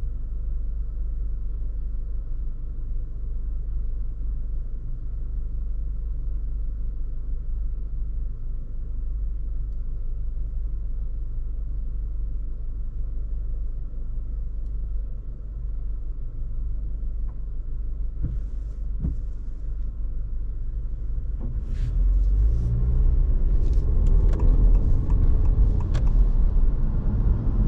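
Honda ZR-V driving on city streets: a steady low road and drive rumble. About 22 seconds in it grows louder, with a rising tone as the car speeds up, and a few short knocks or clicks come through.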